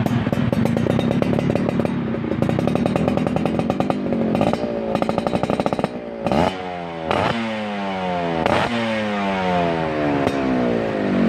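Yamaha F1ZR two-stroke motorcycle engine breathing through a WRS aftermarket exhaust, running with a fast, even popping pulse. About four seconds in it is blipped on the throttle several times, each rev dropping back in a falling whine, before it settles again near the end.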